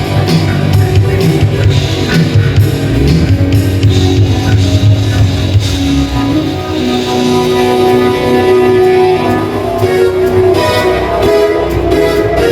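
A live rock band playing an instrumental passage: electric guitar over bass and a drum kit, with long held guitar notes in the second half.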